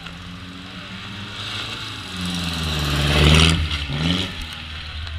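Ford Model T's four-cylinder engine accelerating away from the green-flag start and passing close by. It is loudest about three seconds in, and its pitch drops as it goes past.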